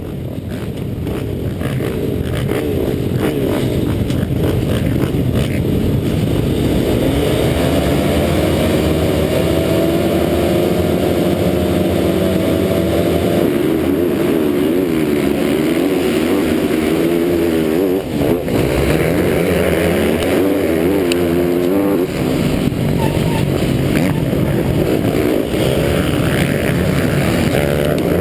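MX1 motocross bike's engine heard from a GoPro mounted on the bike, revving up and down without a break as it is ridden hard round the track, with a couple of brief drops as the throttle is shut.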